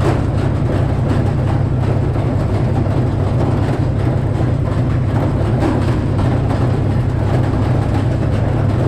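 A Frick sawmill with its 48-inch circular saw running, driven by its engine: a loud, steady low drone that does not change.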